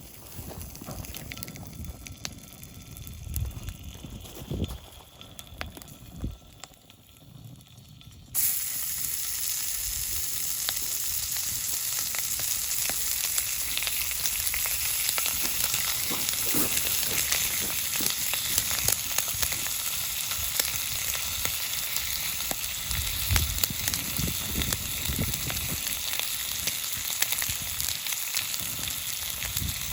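Oil in a frying pan over a campfire: a few low knocks, then about eight seconds in a sudden, loud sizzle starts as food goes into the hot oil. The sizzle stays steady and dense, with fine crackling, through the rest.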